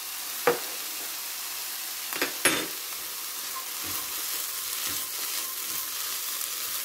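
Shredded chicken with onion and bell pepper sizzling in a frying pan while being stirred with a silicone spatula: a steady hiss, with a few sharp clicks about half a second and two and a half seconds in and soft knocks later on.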